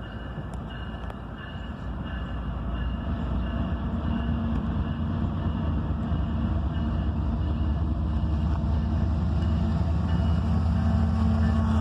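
Diesel locomotives leading a CSX freight train, approaching with a steady engine rumble that grows louder throughout.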